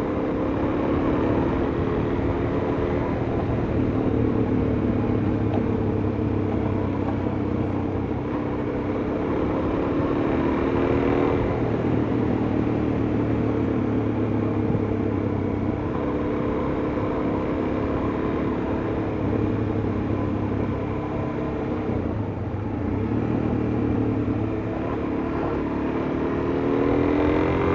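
Suzuki DR-Z400S single-cylinder four-stroke engine and exhaust while riding, its engine speed rising and falling gently with the throttle, over steady wind and road noise. Through the muffler it has the breathing, burping exhaust note the rider loves.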